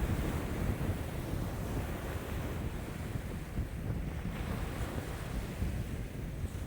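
Waves breaking and washing on a lakeshore in strong wind, with wind buffeting the microphone in low rumbles.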